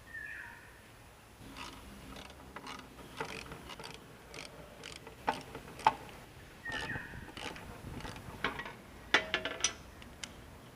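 Metal hand tools clicking and clinking in short, uneven strokes as work on a motorcycle gets under way, with two brief squeaks and a quick run of ratchet-like clicks about nine seconds in.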